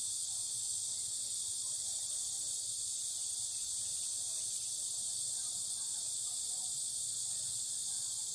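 Steady, high-pitched chorus of insects, unbroken throughout, with faint distant voices wavering beneath it.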